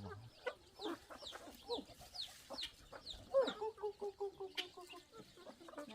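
Chickens clucking, with a run of short, high, falling peeps and a longer held call about three and a half seconds in.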